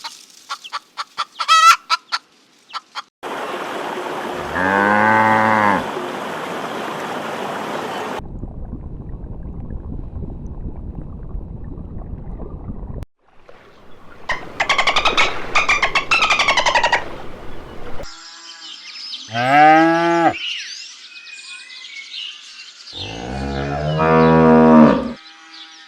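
Short chicken clucks at the start, then buffalo mooing: three long, low calls, the last and loudest near the end, with a stretch of higher, denser calling in between.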